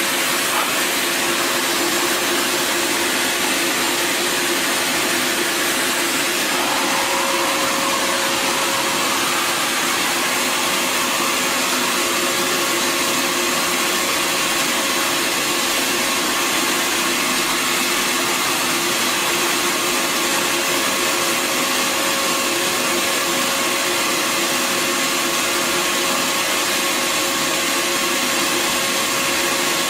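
Bissell Garage Pro wall-mounted wet/dry vacuum's 12-amp motor running steadily in suction mode, a constant whining hum. A brief rising note comes in about seven seconds in.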